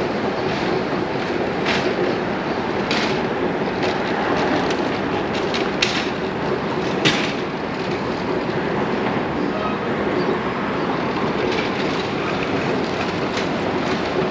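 Steady roar of street traffic, with irregular sharp clacks and knocks, the loudest about six and seven seconds in.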